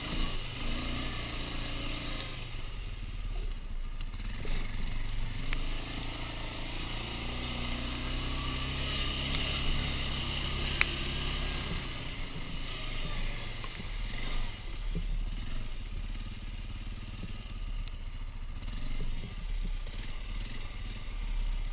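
Quad bike (ATV) engine running steadily at modest revs, with small rises and falls in pitch as it moves along.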